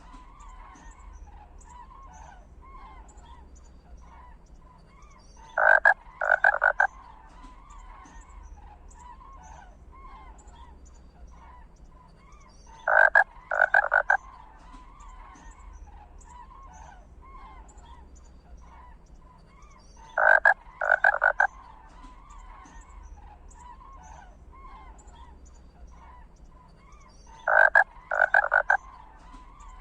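Animal calls: a loud set of three short croaks, repeated about every seven seconds, over a steady faint chatter of smaller calls.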